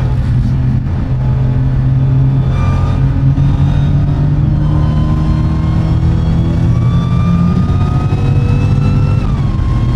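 Supercharged 6.2-litre HEMI V8 of a 2015 Dodge Charger Hellcat running under load at highway speed. Its note climbs slowly, then drops sharply about nine seconds in.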